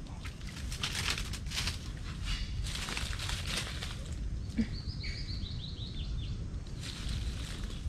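A bird calls a quick run of about eight high notes, each a little lower than the last, over a steady low rumble of wind on the microphone. Before it, in the first half, come bursts of rustling.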